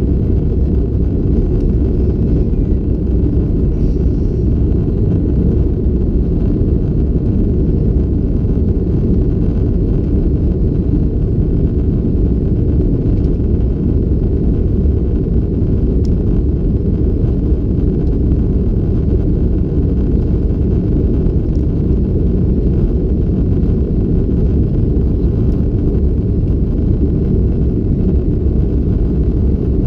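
Steady low rumble of engine and airflow noise heard inside the cabin of an Airbus A330-200 climbing after takeoff.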